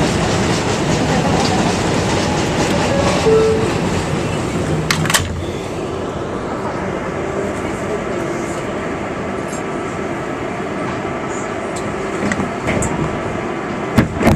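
New York City subway 7 express train running between stations, heard from inside the car: a steady rumble of wheels on rail with clicks and clattering over the track, and a sharper knock about five seconds in and again near the end.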